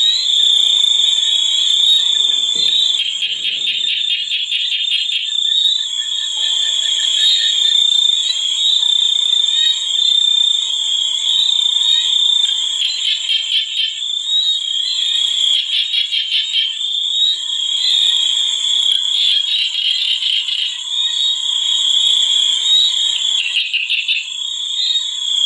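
A dense chorus of calling animals: a continuous high-pitched trill with pulsing calls that swell and fade over it every few seconds.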